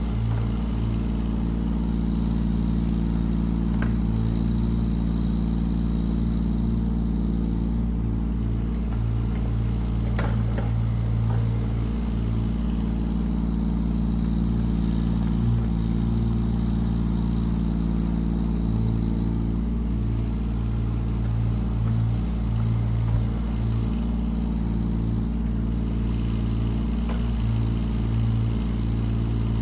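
Yanmar ViO17 mini excavator's three-cylinder diesel engine running steadily, with a couple of brief knocks about four and ten seconds in.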